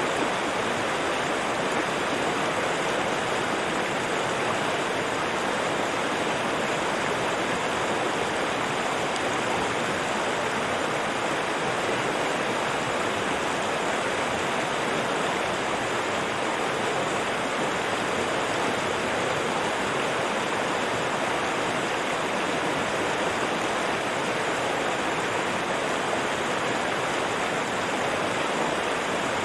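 River water rushing over rocks, a steady, even rush with no changes.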